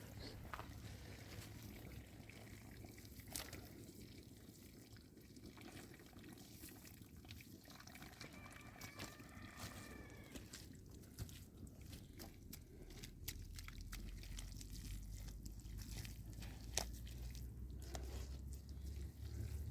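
Faint water trickling and dripping, with scattered small clicks and knocks.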